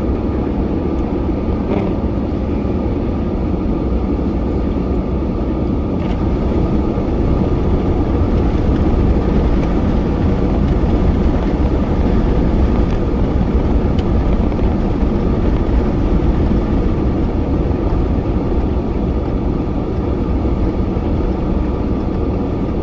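Plow truck running, heard from inside the cab: a steady drone of engine and road noise that swells slightly through the middle.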